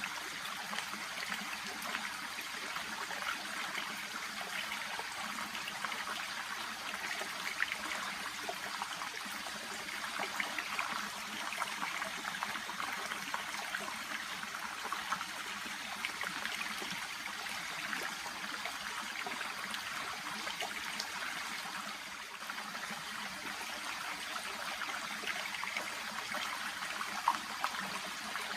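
A shallow brook babbling and trickling steadily, a continuous rippling wash of small splashes.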